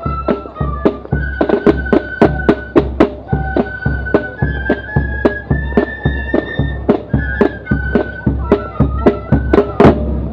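A corps of drums and flute band playing a march: drums beating a steady rhythm of about three strikes a second, with deep bass drum thuds, under a flute melody. The drum strikes are the loudest sound.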